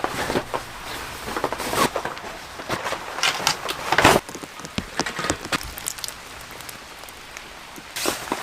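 Rain falling, with scattered sharp taps and knocks throughout; the loudest knock comes about four seconds in and a cluster comes near the end.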